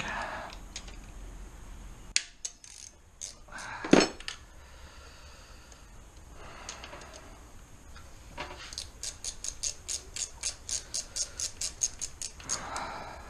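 Metal hand tools clinking, with one sharp clank about four seconds in, then a socket ratchet wrench clicking in a fast, even run as a 12 mm bolt is loosened from the alternator mount.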